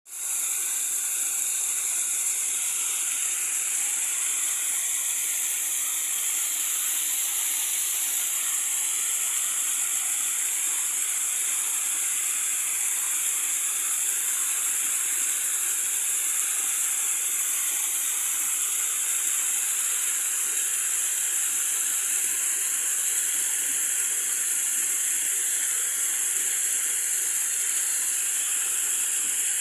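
Running water, a steady, even hiss that fades in quickly at the start and holds unchanged.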